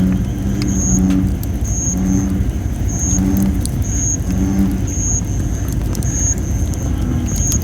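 Campfire burning thin, under-dried red robin (Photinia) wood: a steady low rumble with scattered sharp crackles and pops. Over it an American bullfrog calls, a series of deep notes about once a second that fade out about five seconds in, and a high note pulses about once a second.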